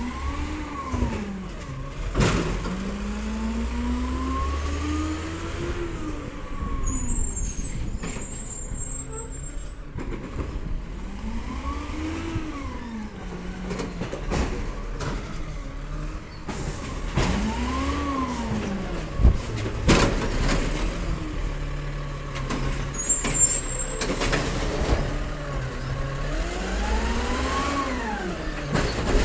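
Diesel Peterbilt 320 side-loader garbage truck engine revving up and back down several times, with a few sharp bangs and short high-pitched squeals between the revs.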